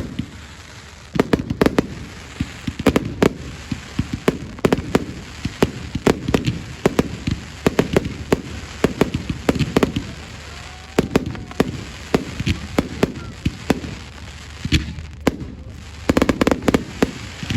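Fireworks display: a rapid run of bangs and crackling bursts in clusters, starting about a second in after a short lull.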